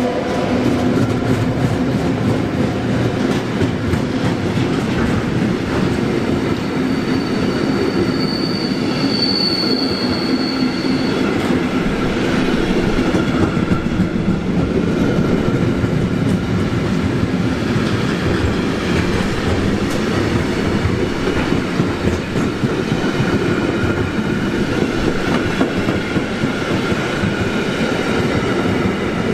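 Freight train wagons rolling past on the rails: a loud, steady rumble of wheels with clickety-clack over the rail joints. A thin high wheel squeal rises for a few seconds about seven seconds in.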